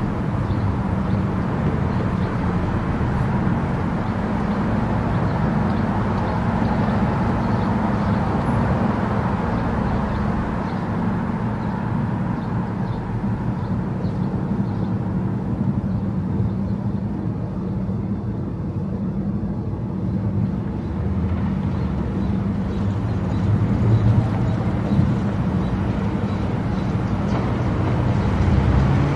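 A car travelling at highway speed: steady engine and tyre-on-road noise, a low rumble with a hiss above it.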